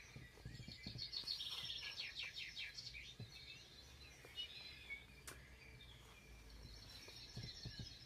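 Songbirds chirping in quick trilling runs of high notes, heavier in the first few seconds and again near the end. A single sharp click about five seconds in.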